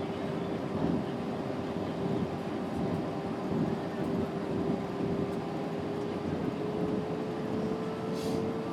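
Steady cabin noise of an Airbus A320neo on approach: a rush of airflow and engine drone, with one steady hum whose pitch rises slightly toward the end.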